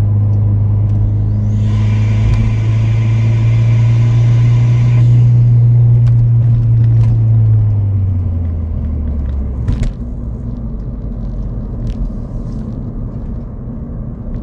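Ford Fiesta ST's turbocharged engine pulling under light acceleration through an aftermarket 2J-racing intake: a loud, steady low drone that rises slightly. An airy intake hiss sits over it for a few seconds. About eight seconds in the drone drops away as the throttle eases, and it settles to a quieter, steady cruise.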